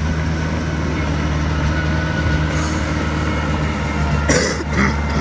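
Diesel engine of earth-moving machinery running steadily at a low, even pitch, with a sharp metallic clank a little over four seconds in and a lighter knock just after.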